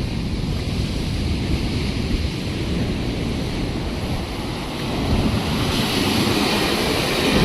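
Wind buffeting the microphone over a steady rushing roar, which grows louder and brighter about six seconds in.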